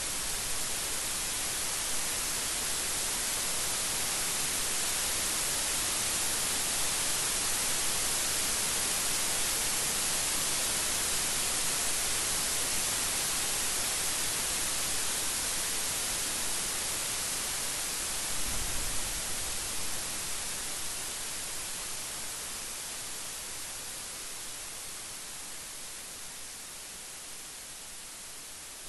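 Steady, dense rain falling, an even hiss. A brief low thump comes about two-thirds through, and the rain gradually fades toward the end.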